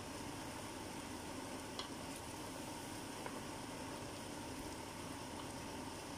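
Chicken, onions and tomatoes sizzling in a stainless steel pot as a steady hiss while a wooden spoon stirs them, with a couple of faint clicks.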